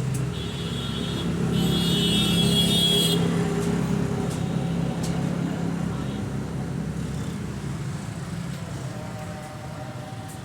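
A motor vehicle's engine running, growing louder over the first couple of seconds and then slowly fading, with a shrill high-pitched squeal over it for about three seconds near the start.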